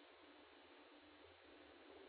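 Near silence: faint steady hiss and hum, the room tone of a gated sermon recording.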